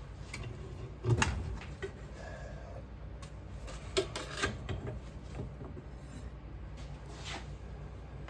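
A few scattered knocks and clinks of metal casting gear being handled, over a steady low hum.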